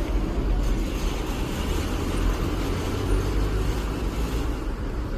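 Steady jet engine noise from a departing four-engine Boeing 747-400, with a deep rumble and no change in pitch.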